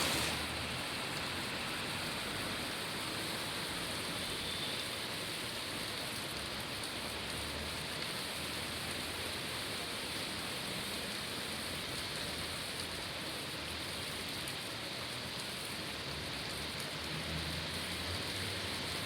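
Steady rain falling on city surfaces, an even hiss throughout, with a low rumble of traffic now and then underneath.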